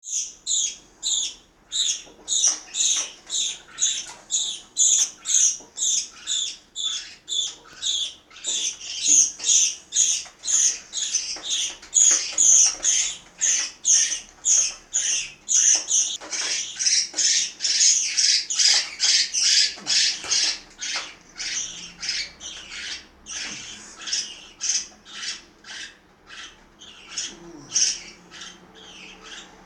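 A flock of parakeets squawking while feeding: shrill, short calls about twice a second, crowding together and overlapping in the middle, then thinning out near the end.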